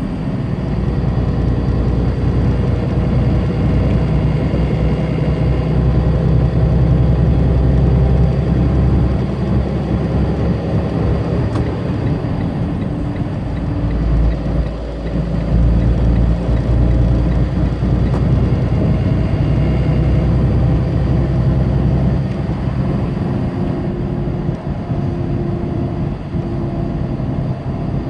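Tractor-trailer's diesel engine running under load with steady road noise, heard inside the cab; the engine note shifts a few times.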